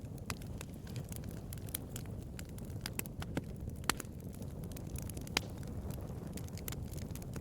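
Bonfire crackling: irregular sharp pops and snaps of burning wood over a steady low rumble of the flames, with two louder pops about four and five and a half seconds in.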